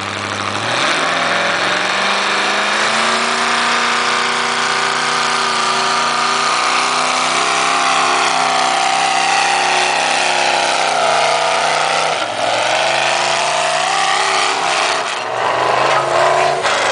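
Pulling tractor's engine revving up and running hard at full throttle under load as it drags the weight sled. The engine pitch dips and climbs back about twelve seconds in, and falls off again near the end.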